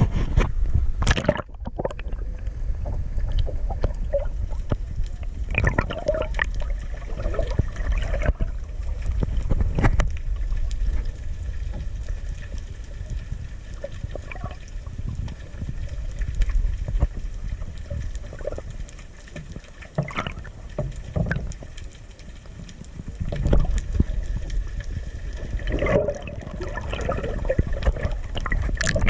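Seawater splashing and sloshing around a kayak as it is paddled, with irregular splashes over a steady low rumble.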